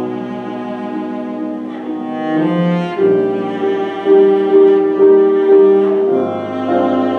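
Live classical music: a bowed string instrument, in the cello's range, playing sustained notes with piano accompaniment. A louder phrase of repeated, accented notes, about two a second, comes in the middle.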